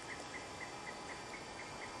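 Insect chirping in a steady series of short, high chirps, about four a second, over faint outdoor background hiss.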